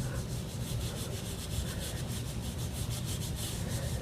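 Hands rubbing leave-in conditioner into hair: quick, repeated soft rubbing strokes.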